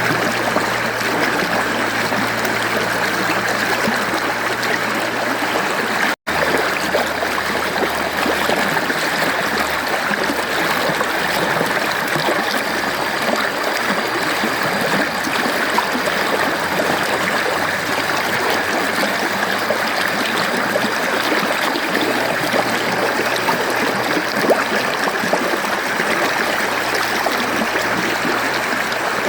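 Mountain stream flowing steadily over rocks, a constant rush and trickle of water. It cuts out for an instant about six seconds in.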